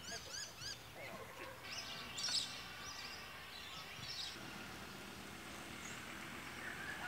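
Wild birds calling: a quick run of four short arched chirps in the first second, then assorted calls and whistles, the loudest about two and a half seconds in, over a faint steady outdoor hiss.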